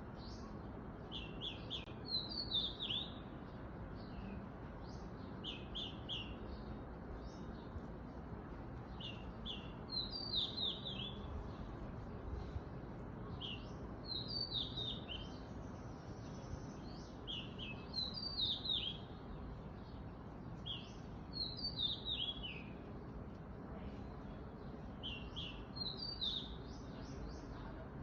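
A songbird singing the same short phrase again and again, about every four seconds: a few quick high notes, then a run of notes falling in pitch. A steady low background noise runs underneath.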